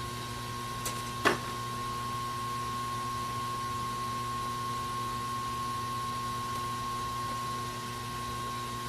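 A steady electrical hum with a high whine, and a sharp click about a second in.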